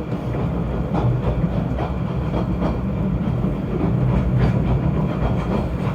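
Snowdon Mountain Railway rack-and-pinion train running: a steady low rumble with faint irregular clatter.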